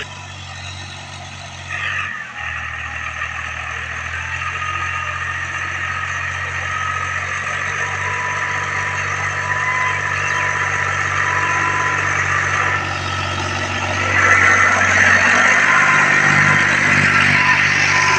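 Fiat 480 tractor's diesel engine running steadily, growing gradually louder, with a further step up in loudness about fourteen seconds in.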